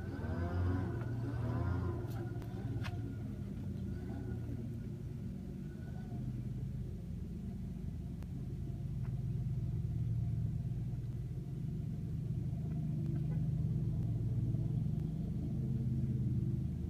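A vehicle engine idling: a steady low hum, with a few faint clicks in the first three seconds.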